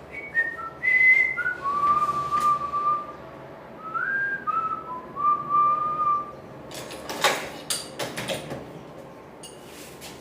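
A person whistling a tune: clear held notes stepping up and down for about six seconds. This is followed by a run of sharp knocks and clatters.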